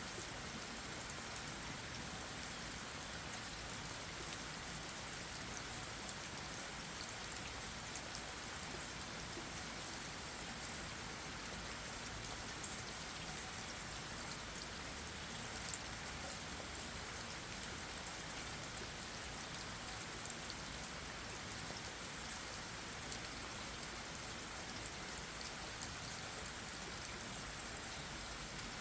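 Steady rain falling on leaves and the ground, with scattered individual drops tapping.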